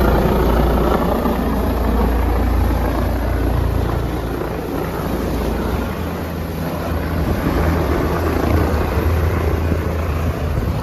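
A helicopter landing: loud, steady rotor and engine noise with a deep rumble.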